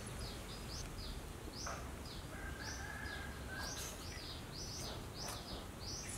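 Small birds chirping: many short, quick, high notes in rapid clusters, over a steady low background noise.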